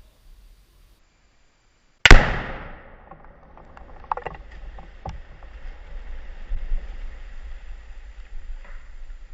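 A large Tannerite charge detonating: one sudden, very loud blast about two seconds in that rings away over about a second, followed by a few scattered sharp knocks.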